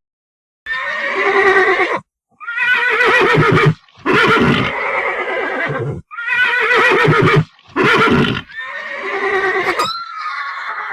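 Horse whinnying: about six neighs in a row with a quavering pitch, separated by short pauses.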